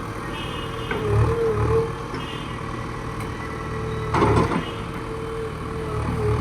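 JCB backhoe loader's diesel engine running, with a steady wavering whine over a low rumble that swells now and then, and a short louder burst of noise about four seconds in.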